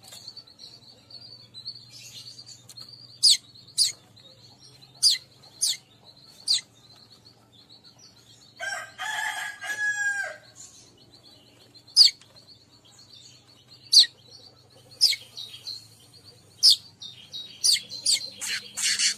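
Weaver birds calling: sharp, short high chip notes repeated at irregular intervals over a faint steady high-pitched whine, with one longer harsh call that drops in pitch at its end about nine seconds in.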